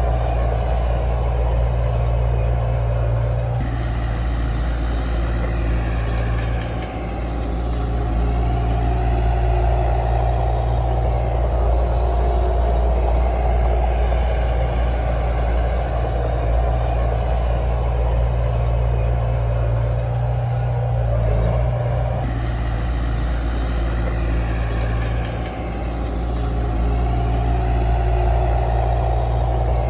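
Komatsu D31 bulldozer's diesel engine running steadily, its note shifting about four seconds in and again a little past the twenty-second mark, with two brief dips in loudness.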